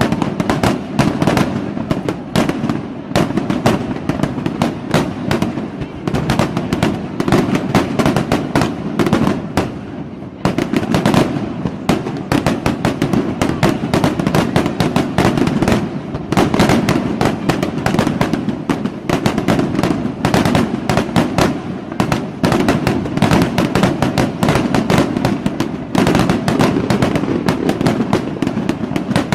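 Fireworks going off in a dense, continuous barrage of bangs and crackles, many reports a second without a break.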